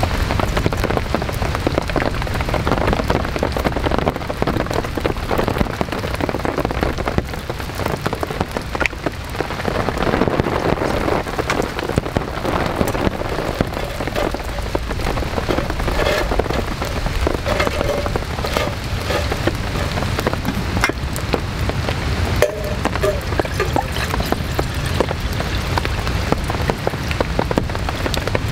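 Heavy rain falling steadily, with many small drop impacts against wet surfaces.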